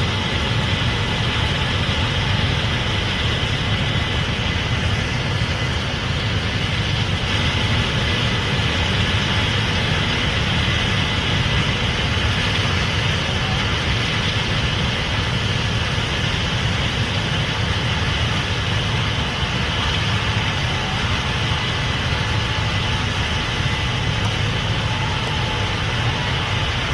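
Case IH Axial-Flow 8250 combine running steadily while harvesting corn: a continuous engine and machinery drone with faint steady whining tones over it.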